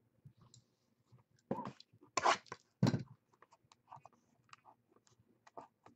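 Trading-card box packaging being torn open and handled: three short, loud tearing bursts in the middle, among small clicks and rustles.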